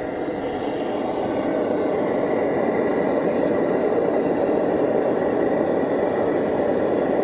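Pressurised blowtorch flame running steadily against the glow head of a Lanz Bulldog, pre-heating the hot-bulb before starting. The glow head is not yet hot enough for the engine to start.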